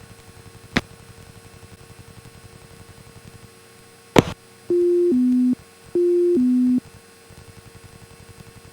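Electronic two-tone chime, a higher note stepping down to a lower one, sounding twice just after a sharp click, over a faint low pulsing hum.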